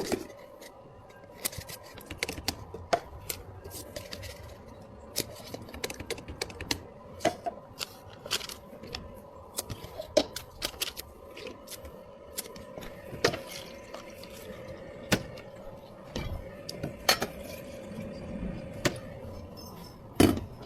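Clatter of cups, utensils and containers being handled while drinks are made: many short clicks, taps and knocks at irregular intervals, over a steady low hum.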